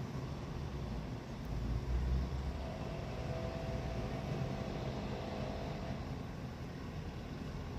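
Low, steady engine rumble from construction machinery, swelling briefly about two seconds in, with a faint whine in the middle.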